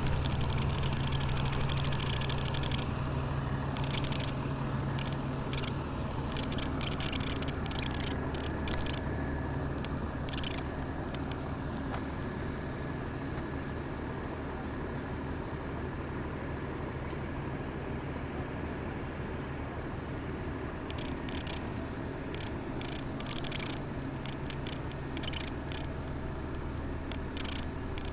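A vehicle engine idling steadily, its low hum strongest for the first dozen seconds and weaker after. Bursts of high rattling noise come and go over it.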